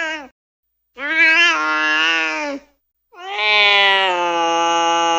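Domestic cat meowing: the end of one call, then a meow about a second and a half long, then a long, drawn-out meow held nearly level in pitch that starts about three seconds in.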